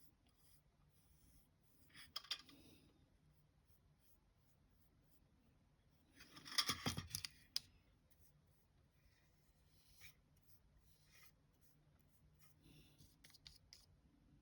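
Near silence, with a few faint scratchy strokes of a paintbrush on a small wooden piece; the loudest comes about halfway through.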